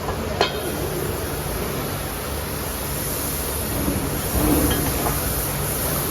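Steady factory workshop noise, with a single sharp knock about half a second in.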